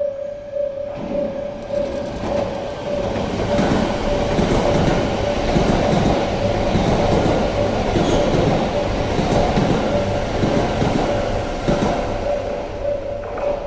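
Yamagata Shinkansen E3-series train passing on the track: rumble and rail clatter building about a second in, loudest through the middle, then easing near the end. A steady pulsing tone sounds throughout.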